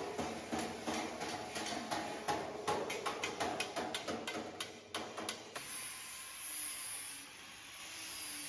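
Sheet-metal fabrication work: a quick run of sharp knocks and taps, about four a second, that stops about five and a half seconds in and gives way to a steady high hiss.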